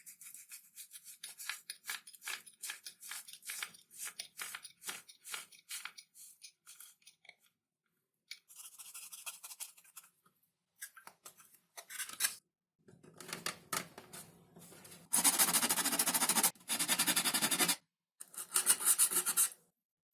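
XPS foam being worked by hand: a run of short scraping strokes, then after a pause, louder rapid back-and-forth rubbing near the end.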